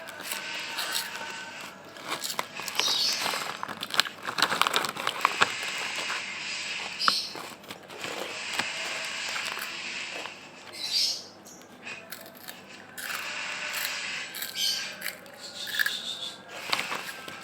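Someone chewing crispy roasted-corn-flavoured snack chips close to the microphone, a dense run of sharp crackling crunches.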